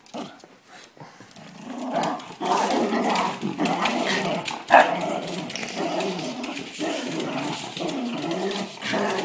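Dog growling with a ball held in its mouth: a long, wavering growl that starts about two seconds in and goes on without a break, with one sharp knock near the middle.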